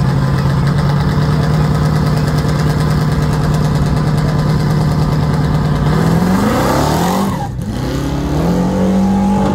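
Drag car's engine held at steady high revs on the starting line, then launching: the engine note climbs about six seconds in, drops out briefly with a gear change, and climbs again to a higher steady note.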